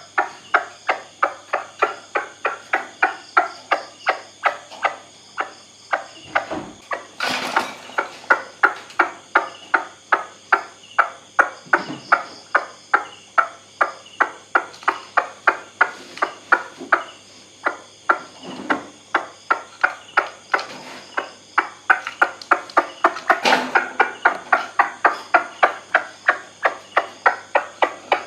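White-breasted waterhen calling: a long run of repeated 'kwak' notes at about three a second, steady in pace. Two sharp knocks are heard, one about seven seconds in and one near the end.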